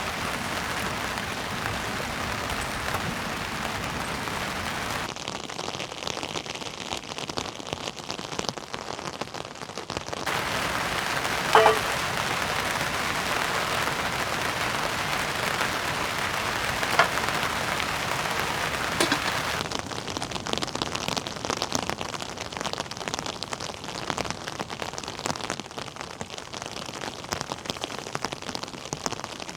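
Steady heavy rain, a dense patter of many drops, which changes character a few times. About a third of the way in comes a short sharp sound louder than the rain, and a fainter one follows later.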